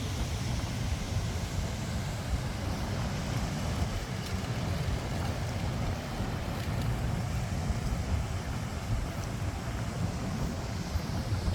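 Steady city street ambience: a low rumble of passing traffic with wind buffeting the microphone, and no single event standing out.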